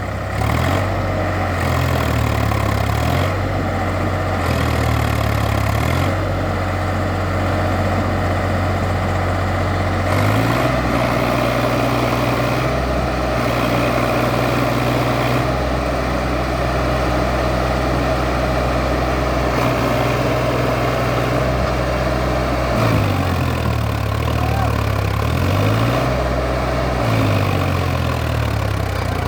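Diesel engine of a Solis tractor running steadily while hauling a full trolley load of sugarcane, a low drone whose pitch wavers at times.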